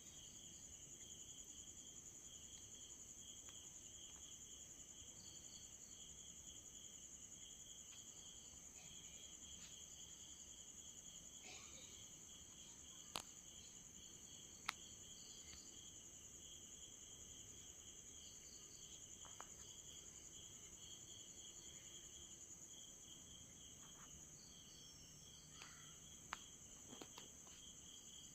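Faint chorus of crickets and other night insects: a steady high trill with a pulsing chirp beneath it. A few sharp clicks stand out in the middle and near the end.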